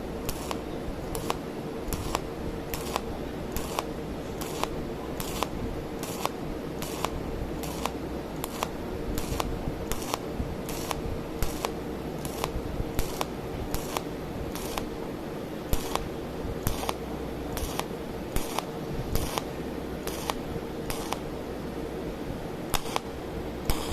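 SZ-GCS03 PLUS cold welding machine pulse-welding 2 mm aluminium plate: a sharp snap of each weld pulse, evenly repeated a little under twice a second, over a steady hum.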